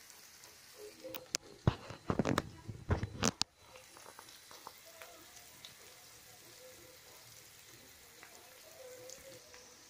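Chopped onion, garlic, peppers and carrot frying quietly in oil. A cluster of loud knocks and clatters comes between about one and three and a half seconds in.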